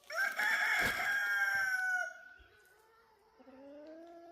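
Rooster crowing: one loud, drawn-out crow lasting about two seconds, sagging in pitch at its tail. Near the end comes a fainter, lower drawn-out call.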